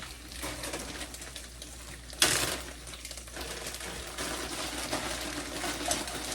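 Chopped cabbage dropped into a hot pan of browned sausage, with a sudden loud burst of sizzling about two seconds in, then steady sizzling and crackling that grows busier.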